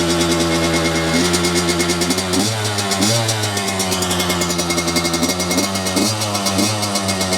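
Kawasaki KX85 two-stroke single-cylinder dirt bike engine running through its newly fitted FMF exhaust, holding a steady fast idle and blipped several times: the pitch rises quickly and drops back. Engine running after the exhaust swap.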